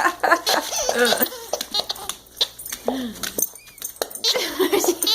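A dog's baby-voice toy sounding as the dog mouths and squeezes it: a run of short, wavering baby-like giggles and cries, with clicks between.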